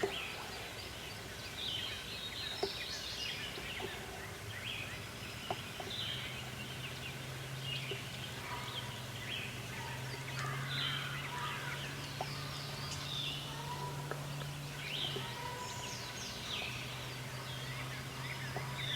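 Wild turkey gobbler gobbling among a chorus of songbirds' short falling chirps. A steady low hum sets in about a third of the way through.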